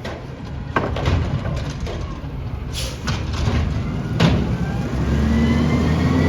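Recycling garbage truck working: several metallic knocks and clanks, a short hiss of air about three seconds in, then a steady engine drone comes up near the end.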